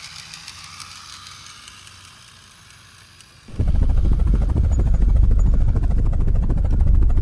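A faint, airy whirr. About three and a half seconds in, a loud, low, fast-pulsing helicopter rotor rumble cuts in suddenly.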